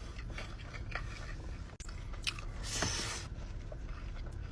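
A person chewing a mouthful of falafel bowl with white sauce: scattered wet mouth clicks, with a louder noisy stretch nearly three seconds in.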